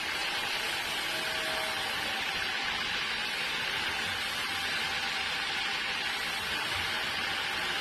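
Sawmill saw running steadily through wood, a constant hiss that does not change.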